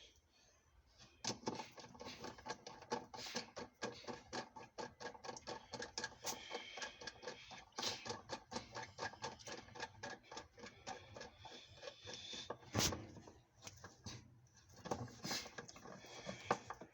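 Dense, irregular clicking and light clattering from work on a washing machine's parts, with a louder knock about three-quarters of the way through.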